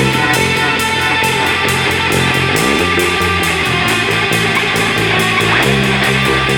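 Rock band playing an instrumental passage: electric guitar chords over bass, with a steady cymbal beat.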